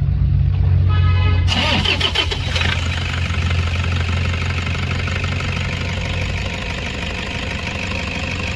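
Car engine starting: it catches about a second and a half in with a surge, then settles into a steady idle.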